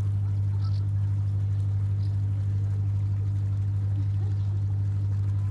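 A steady low hum at one unchanging pitch and level throughout.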